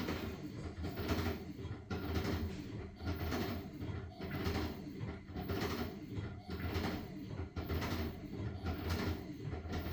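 LG washing machine in its wash cycle, its drum turning a load of blankets through the water: a swish every half second to a second over a low motor hum.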